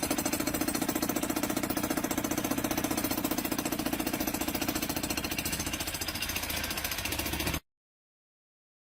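Powered hammering tool, such as a jackhammer, pounding steadily in a rapid even rhythm; it cuts off suddenly near the end.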